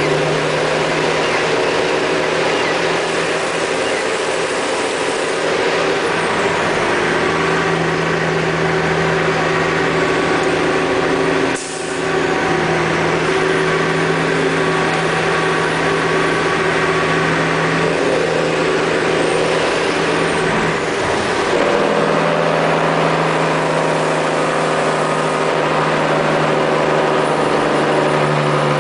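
Mack truck's diesel engine with its Jake (compression) brake on, exhausting through a home-built muffler: a loud, steady drone that drops out for a moment about twelve seconds in.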